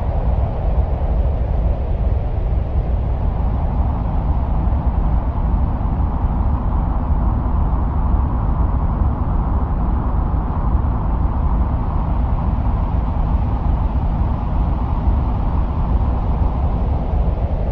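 Steady, unbroken wind-like rumble, heaviest in the deep bass with a softer hissing band in the middle range: a 'sounds of Mars' ambient soundscape of Martian wind.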